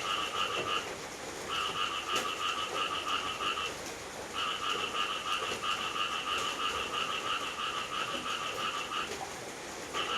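Steady rain hiss with a loud, rapid pulsing trill that comes in long bouts, breaking off briefly three times.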